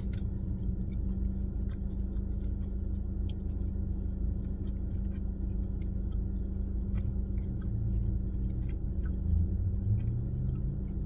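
Closed-mouth chewing of a mouthful of burger, with faint soft clicks, over a steady low rumble and hum inside a car cabin.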